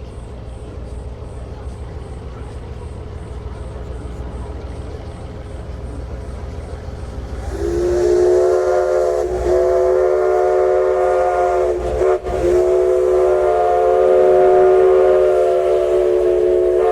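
Steam whistle of the Mallet 204 2-6-6-2 locomotive blowing a loud multi-tone chord, after a low rumble from the approaching train. The whistle comes in about halfway through with a short first blast, then a long held blast with a brief dip in the middle.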